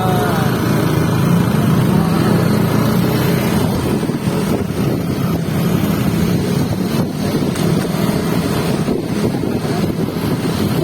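Motorcycle engine running steadily at speed, with heavy wind noise rushing over the microphone.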